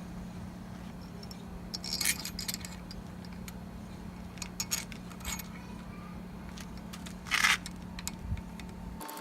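Small metal engine parts and tools clinking and scraping on a workbench: a scattering of light clinks, with a longer, louder scrape about seven seconds in, over a steady low hum.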